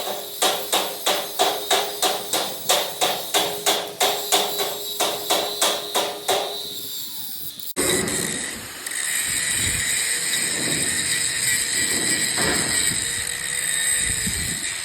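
Metal being hammered in an even rhythm, about three blows a second, which stops about six seconds in. After a sudden cut, a steady machine noise with a high whine follows.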